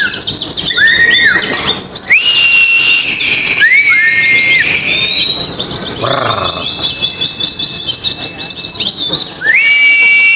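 Pleci white-eyes singing: a fast, high, unbroken chattering trill, overlaid every second or two by clear held whistled notes that slide up at the start and drop away at the end.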